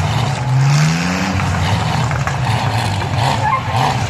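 Demolition derby truck engines running and revving, one rising in pitch about half a second in.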